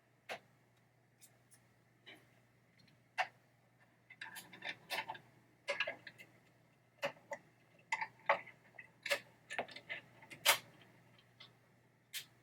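Irregular small metallic clicks and taps of a nut driver and screw knocking against the metal parts of a pinball trap door mechanism while a screw is being fitted, sparse at first and coming thick and fast from about four seconds in. A faint steady hum lies underneath.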